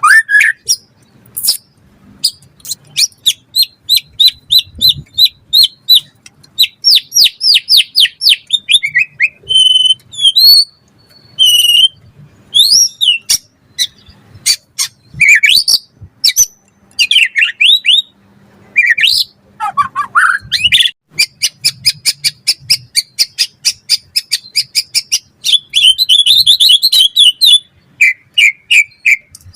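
White-rumped shama (murai batu) singing loudly in a long, varied song of fast runs of short repeated notes, sweeping whistles and rapid trills.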